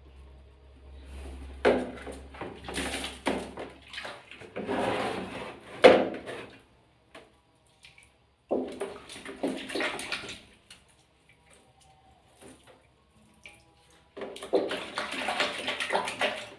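Water splashing and sloshing in four bursts of a second or two each, as a sugar glider is washed by hand.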